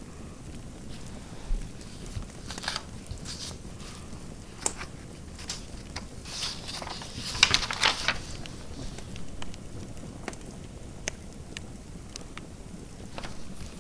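Fireplace crackling: scattered sharp pops over a steady hiss, with a denser run of crackles about six to eight seconds in.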